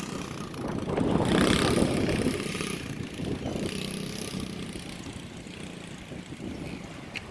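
Small dirt bike engine running with a faint steady hum, growing fainter over the few seconds, mixed with wind rumble on the microphone.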